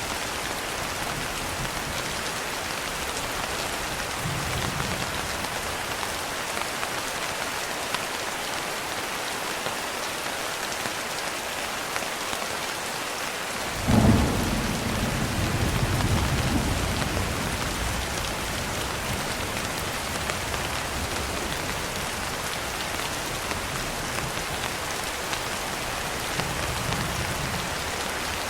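Steady rain falling on a surface. Halfway through, a sudden thunderclap rolls on as a low rumble for about four seconds, with fainter low rumbles of thunder near the start and near the end.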